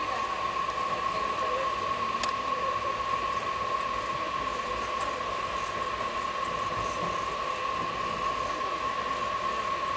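Steady hiss inside an air-conditioned train coach, with a constant high-pitched whine over it and a couple of faint clicks.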